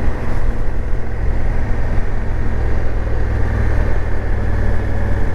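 Motorcycle riding at a steady speed on the open road: a steady low engine drone mixed with road and wind noise.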